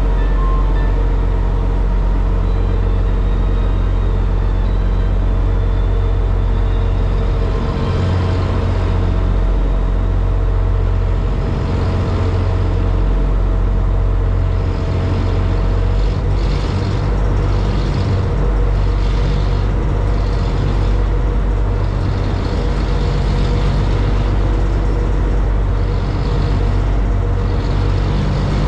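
High-speed passenger boat's engines droning steadily under way. A rushing hiss swells and fades again and again from about eight seconds in.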